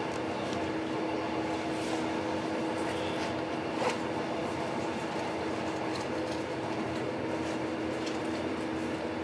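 Passenger train running along the line, heard from inside the carriage: a steady rumble of wheels on rail with a constant hum and scattered light clicks from the track, one sharper click about four seconds in.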